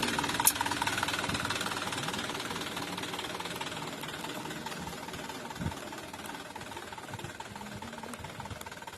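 Truck's diesel engine running with a steady clatter, growing steadily fainter as the truck moves away.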